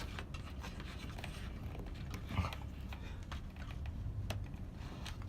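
Faint handling noises: scratching and rubbing with a few light clicks, as parts of the fan's fixing are worked by hand.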